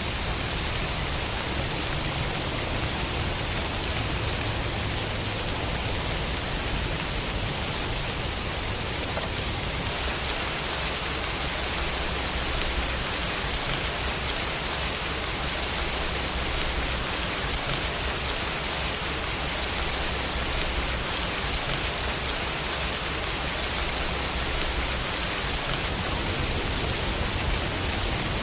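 Steady rain falling, an even hiss that holds at a constant level throughout.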